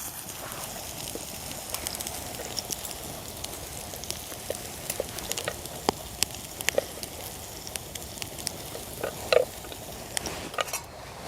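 Food frying in a pan set directly on a campfire: a steady sizzle with scattered crackles and pops, one louder pop about nine seconds in.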